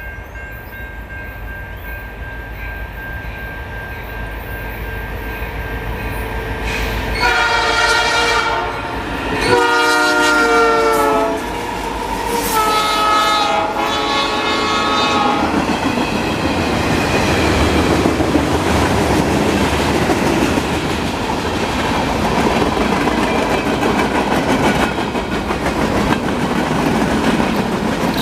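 A Canadian National freight train approaching behind two diesel-electric locomotives, an SD75I and an SD70M-2. The rumble grows louder, the locomotive air horn sounds a series of blasts about a quarter to half of the way in, and then the freight cars' wheels clatter over the rail joints as the train passes.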